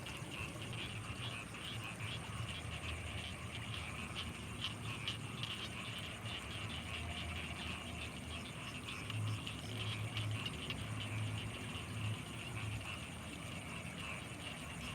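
Night chorus of frogs and insects around rice fields: a dense mass of rapid pulsing calls over a thin, steady high insect whine. A low throbbing swells for a few seconds about nine seconds in.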